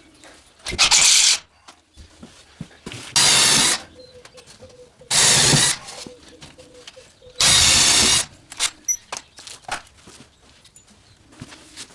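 A cordless drill run in four short bursts, about two seconds apart, driving screws, with small knocks and clicks of handling in between.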